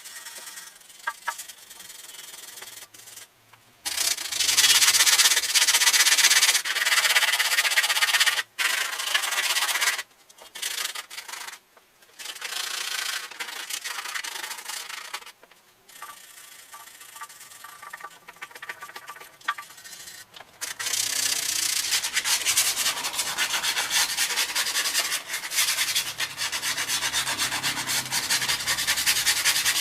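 Hand sanding of rusty generator metal: rough scratchy rubbing strokes in long stretches, with a few short pauses and a quieter spell near the middle.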